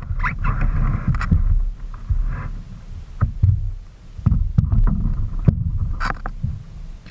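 Low, uneven rumbling of wind and handling noise on a kayak, broken by several sharp knocks. A hissing sound runs through the first two and a half seconds.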